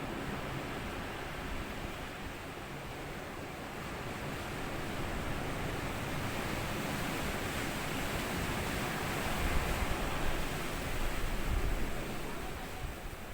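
Ocean waves washing up on a sandy beach, the wash swelling to a louder surge about two thirds of the way through and then easing off.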